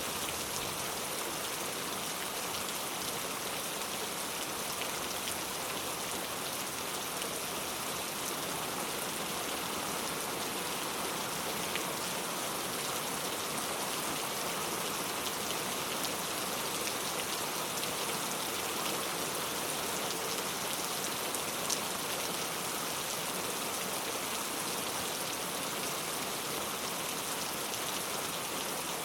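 Steady heavy rain, a dense even hiss of drops falling on surfaces, with a single sharper drop tick a little over two thirds of the way through.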